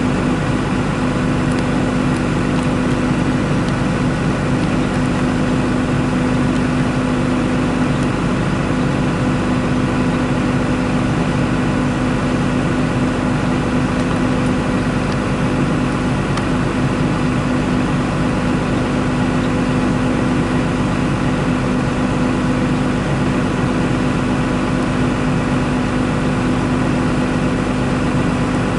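Diesel engine of harvest machinery running at a constant speed: a steady, unchanging hum with a strong low tone.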